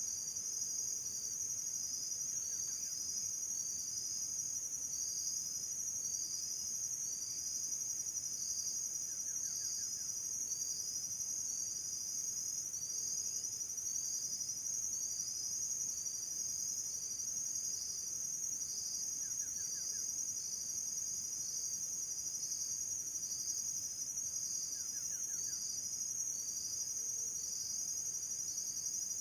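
Steady chorus of insects: a continuous high-pitched trill, with a shorter chirp repeating about every second and a half beneath it.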